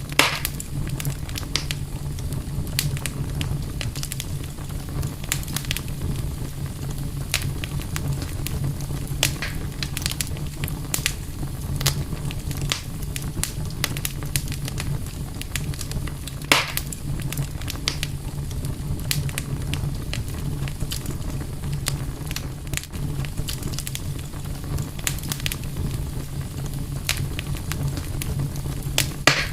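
Campfire crackling with frequent small pops, two louder ones just after the start and about halfway through, over a steady low rumble.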